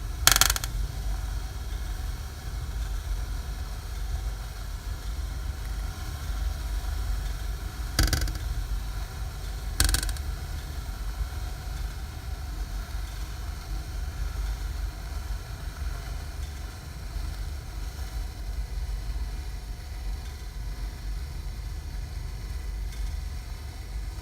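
Small fireplace firework (a 'Knallbonbon' cracker) going off in three short sharp pops: the loudest about half a second in, then two more about two seconds apart near the middle. A steady low rumble runs underneath.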